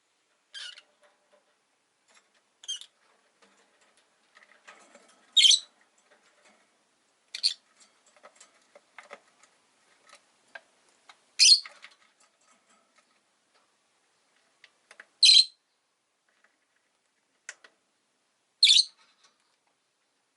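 Rosy-faced lovebirds giving short, high-pitched chirps, about eight in all, spaced irregularly a couple of seconds apart, with faint clicks and rustles between.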